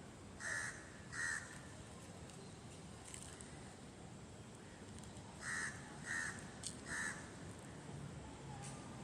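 A bird giving short, harsh calls: two about half a second apart near the start, then three more about midway.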